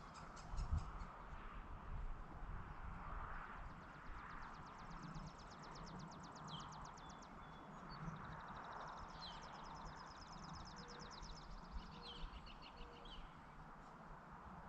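Outdoor countryside ambience at a ranch in the evening. Rapid, high trilling calls repeat in long runs through the middle and later part, with a few short downward chirps, over a soft steady background and a few low thuds about a second in.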